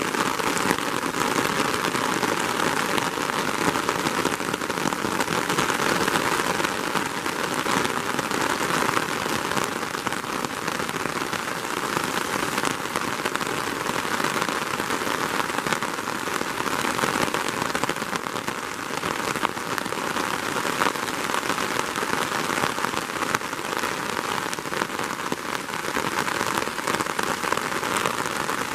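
Steady rain falling: an even hiss of many small drops, with no thunder.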